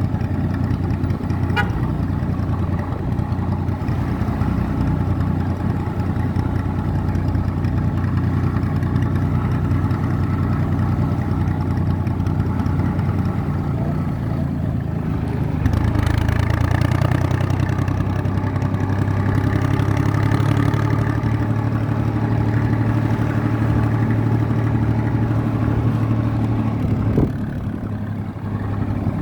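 IMT 549 tractor's diesel engine running steadily under way. About halfway through the revs rise and hold, then drop back near the end with a short knock, as when the throttle is eased for a gear change.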